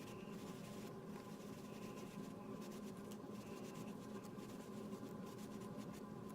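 Ink sponge rubbing ink onto cardstock in many small repeated strokes, a faint scratchy brushing, over a steady low hum.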